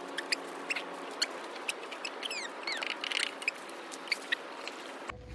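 Birds chirping in short, high notes that slide downward, scattered over a steady hiss, with a few faint clicks.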